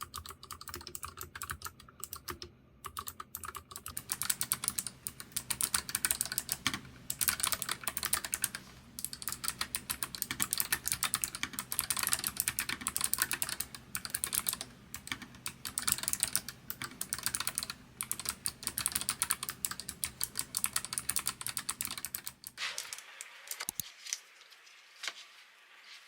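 Fast, steady typing on a NuPhy Air75 low-profile mechanical keyboard with clicky Gateron blue switches, each keystroke a sharp click. Near the end a low background hum stops and the keystrokes thin out.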